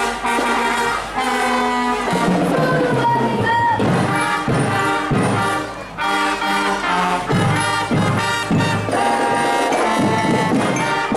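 Band music: a held, brass-like melody over regular drum strikes.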